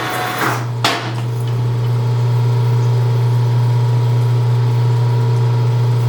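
Precision Matthews 1640 metal lathe running under load, a steady low hum as a carbide insert takes a 30-thou-deep cut in cold rolled steel. The hum grows louder about half a second in, and two sharp clicks sound around the first second.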